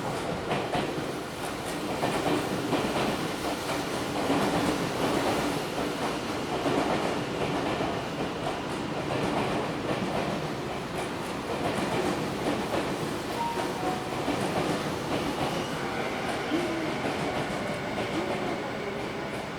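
Tokyo Metro 10000 series electric train running through the platform, its wheels clicking over rail joints with steady running noise. The clicking is loudest in the first half, then settles.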